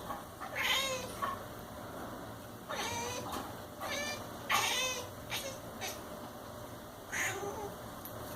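Domestic cat making about five short, high-pitched, warbling calls: the strange noises a cat makes while watching a fly it is fixed on as prey.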